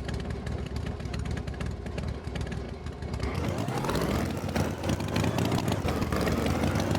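Tractor engine sound effect running steadily, then revving up about three seconds in, rising in pitch and getting slightly louder.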